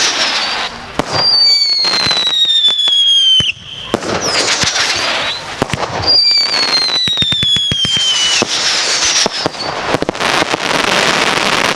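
Consumer firework cake firing whistling shots: two long whistles that slowly fall in pitch, each about two and a half seconds, among sharp bangs and dense crackling, which gets thicker near the end.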